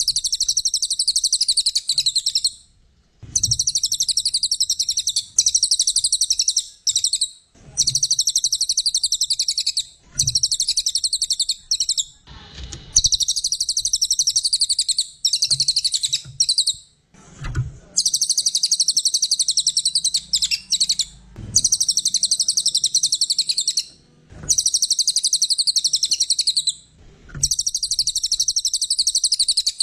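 Cililin singing in long, very rapid, high-pitched trills, each phrase lasting two to three seconds with short pauses between.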